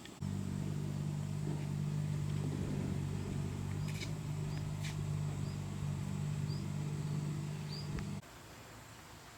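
A machine's steady low hum starts abruptly, runs for about eight seconds and cuts off suddenly, with a few faint, short high chirps over it.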